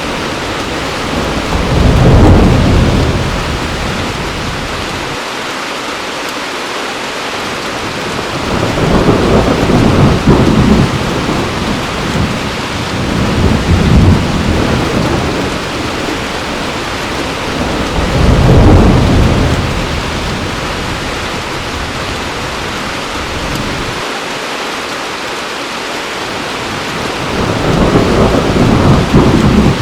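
Heavy rain falling steadily, with thunder rumbling low about five times, each roll swelling and fading over a second or two.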